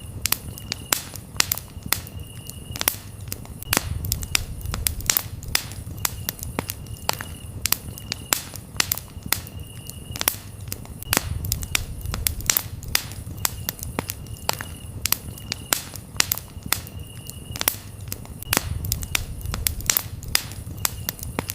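Campfire crackling with frequent sharp pops over a low rumble of the flames, while crickets chirp in short, high, steady trills.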